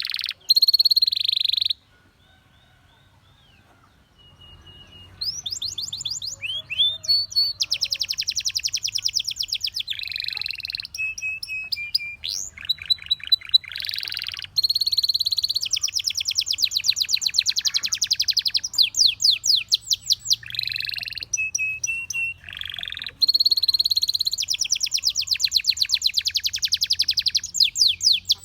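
Domestic canary singing: long rolling trills of rapidly repeated high notes, some phrases sweeping and some held on one pitch, with a brief pause about two seconds in.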